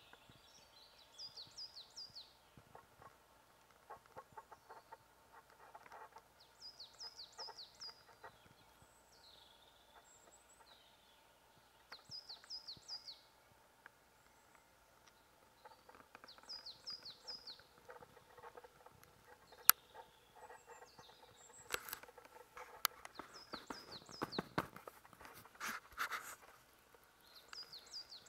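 A small songbird repeating a short phrase of a few quick falling high notes about every five seconds in woodland, over faint outdoor background noise. About two-thirds of the way through come a few sharp clicks and a few seconds of rustling close to the microphone.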